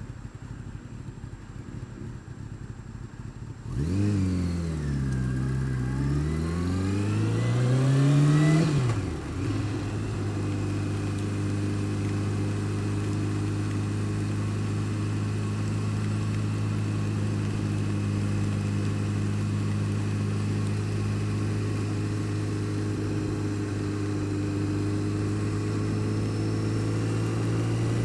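Honda Fireblade inline-four engine: about four seconds in it comes in, its pitch dipping then climbing for about five seconds before dropping sharply. It then settles into steady running, rising slightly near the end. The bike has an unidentified noise that the owner says is worse when cold and never goes away when warm.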